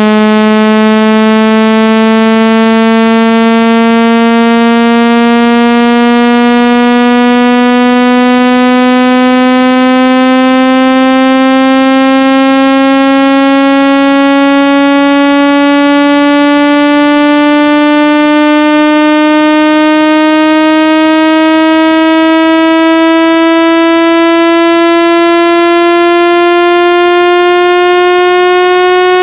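Synthetic speaker-cleaning tone played to push water and dust out of a phone speaker. It is a loud, buzzy tone rich in overtones, its pitch rising slowly and steadily.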